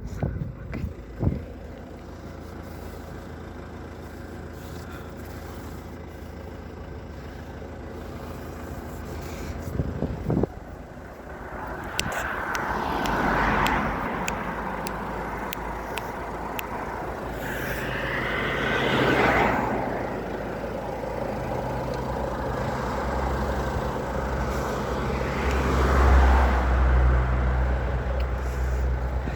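Road traffic: vehicles passing one after another over a steady low engine hum, with three louder passes that swell and fade, the loudest near the end.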